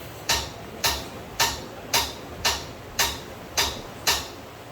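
A regular series of sharp taps or clicks, about two a second, eight strokes in all, which stop shortly before the end.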